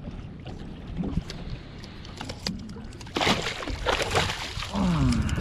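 Wind rumbling on the microphone with a few sharp clicks, then about three seconds in a second or so of loud splashing as a hooked speckled trout thrashes at the surface while it is reeled in. A short pitched sound falls in pitch near the end.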